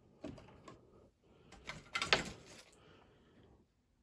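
Handling noises of small hard objects on a workbench: a few clicks and light knocks, then a denser rattle of clicks and scrapes about two seconds in.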